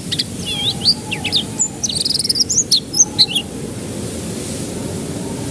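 Canary singing a quick run of varied chirps and a fast trill, breaking off about three seconds in, over a steady background hiss.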